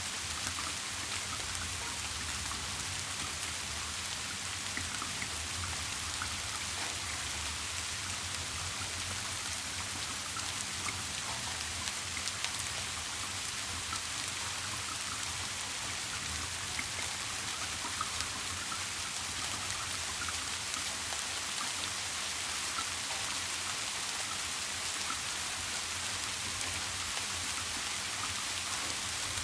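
Steady rain falling, a constant hiss with many small drop ticks scattered through it, over a low, even rumble.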